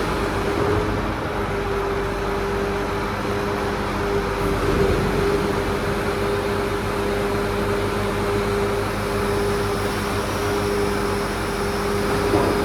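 Crane truck with a grapple attachment running steadily: a constant whine over a low engine rumble, with a short clack near the end.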